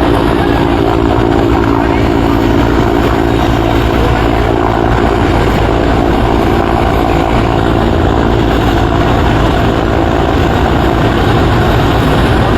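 Helicopter running steadily, a loud continuous noise of engine and rotor with a low hum.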